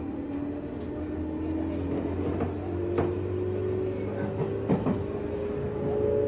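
Interior running sound of a JR West 201 series electric train, heard from inside motor car MoHa 201-266 as it picks up speed: the armature-chopper traction motors' tone rises steadily in pitch over a low hum. A few sharp clicks come from the running gear about halfway through.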